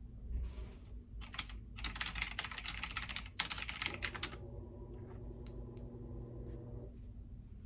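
Typing on a computer keyboard: a quick run of keystrokes from about one to four seconds in, then a few scattered key presses, over a steady low hum.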